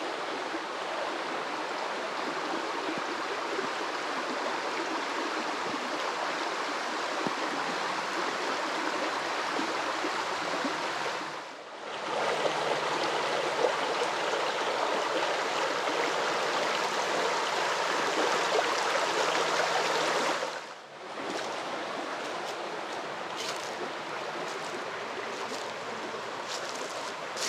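Shallow blackwater creek running over small rapids, a steady rushing and gurgling of water. It briefly dips twice, about a third and three quarters of the way through, then carries on.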